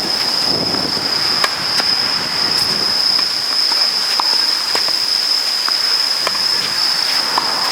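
A steady high-pitched insect drone, over a rushing haze of noise and a few sharp knocks, the loudest about one and a half seconds in.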